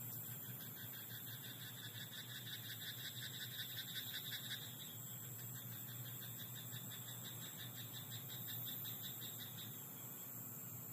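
Frogs croaking in a fast pulsing trill, loudest in the first four seconds and then fainter until near the end, over a steady background hiss.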